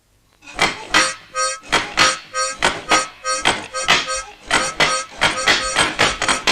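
Cartoon music led by a harmonica, starting about half a second in with short repeated chords in a steady beat that quickens in the second half.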